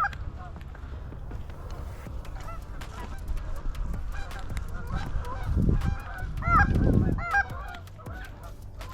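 Canada geese honking and clucking, a series of short rising-and-falling honks that come thickest about five to seven seconds in, over a low rumble.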